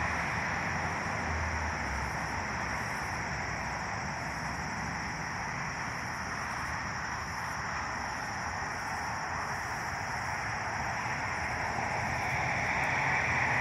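Exo commuter train at the far end of the platform, giving a steady rumble and hiss that swells a little near the end.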